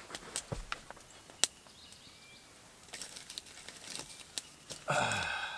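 Campfire cooking: scattered sharp crackles and clicks from the fire and the frying pan, with a faint hiss in the middle.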